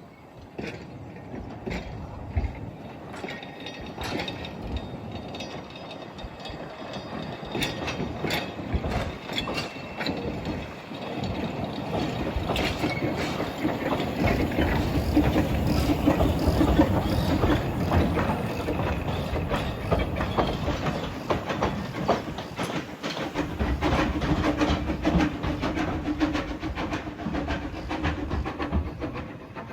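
A train running on rails, its wheels clicking over rail joints amid a steady rumble that grows louder over the first half.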